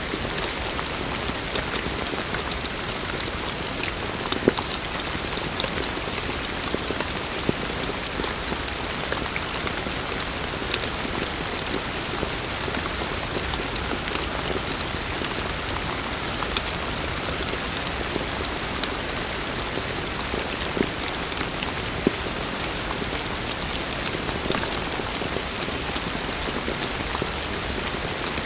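Heavy rain falling steadily, a dense even hiss with many individual drops ticking on surfaces and a few louder nearby drop hits.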